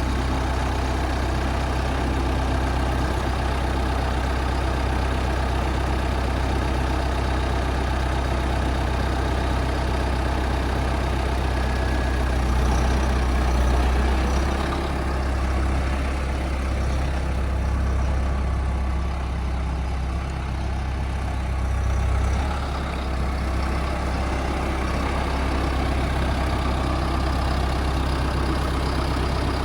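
Tractor engine running steadily with a strong low hum; its note shifts slightly about halfway through and again about three-quarters of the way through.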